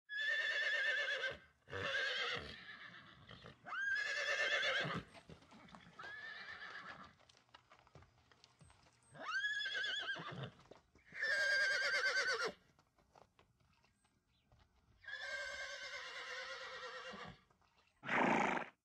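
Horses whinnying over and over: about eight separate neighs, each a second or so long with a quavering pitch, some sweeping up at the start. The last one, near the end, is short.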